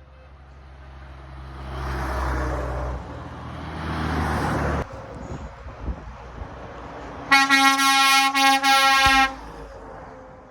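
Heavy lorry engine and tyre noise swelling as trucks pass, cutting off abruptly about 5 s in. About 7 s in, a truck air horn blares for about two seconds with a few brief breaks, the loudest sound here.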